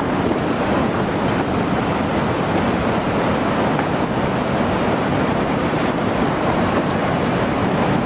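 Floodwater surging through a town: a steady, unbroken rush of moving water.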